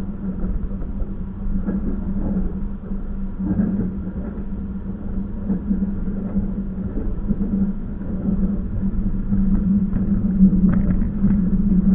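Passenger train running: a steady low rumble with a constant hum and a few faint ticks.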